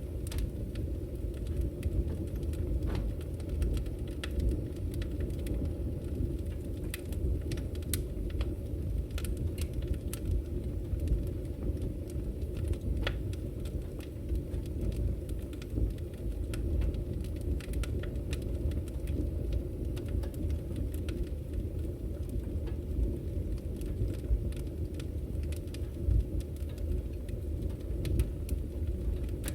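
Firewood burning in a fireplace: scattered sharp pops and snaps at irregular moments over a steady low rumble.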